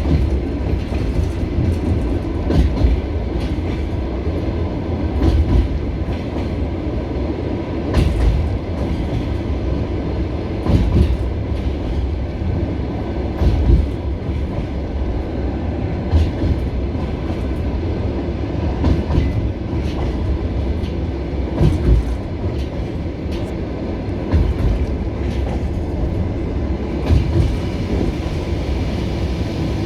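Passenger train wheels clacking over rail joints, a sharp double clack roughly every two and a half to three seconds over a steady low rumble, heard from inside the carriage: the train running at a steady moderate speed.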